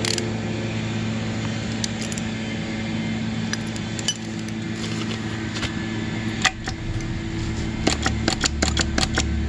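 Light metallic clinks and taps of tools and bike parts being handled, coming quickly in the last few seconds, over a steady low hum.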